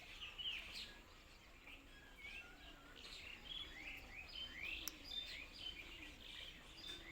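Several birds chirping and calling at once, many short rising notes overlapping, faint. A single sharp click about five seconds in.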